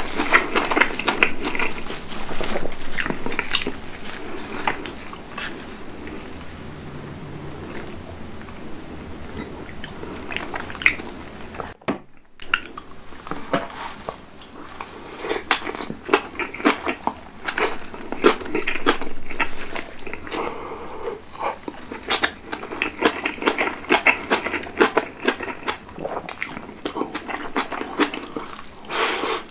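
Close-miked chewing and biting of napa cabbage kimchi and rice, with many short wet mouth clicks. There is a brief silent break about twelve seconds in.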